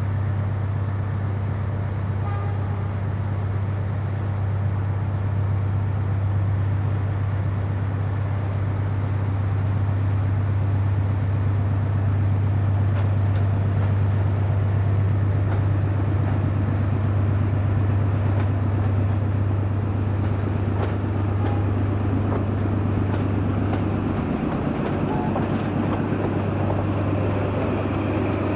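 A locomotive running with a steady low hum, with a noisy rumble above it. Near the end a rougher rattle with faint clicks builds up, like rolling rail stock.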